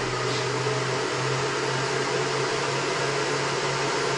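600-watt microwave oven running off a 1500-watt pure sine wave inverter, a steady hum with a broad whir over it.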